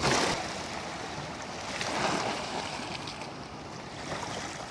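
Small sea waves washing in over the shore stones in two surges, one right at the start and another about two seconds in, with some wind on the microphone.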